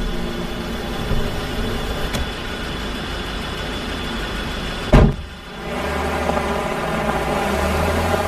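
Steady vehicle running noise, with one sharp thud about five seconds in, after which a lower, steadier rumble sets in.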